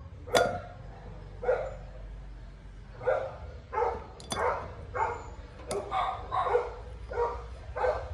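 A dog barking repeatedly, about ten short barks, spaced more closely in the second half.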